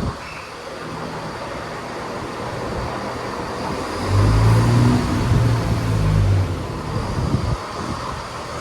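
Diesel engines of a pair of Class 170 Turbostar multiple units opening up as the train starts to pull away, building to a loud low drone about four seconds in, then revved down again near the end as power is briefly shut off.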